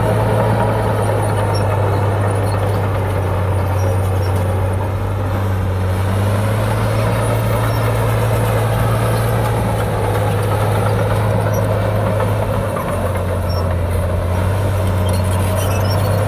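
Heavy diesel engine of an earthmoving machine running at a steady speed, a deep even hum that eases briefly about two-thirds of the way through.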